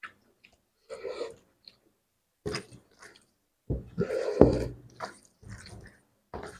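A person eating spicy fish curry close to the microphone: short, separate bursts of chewing and wet mouth sounds, the loudest a little past halfway.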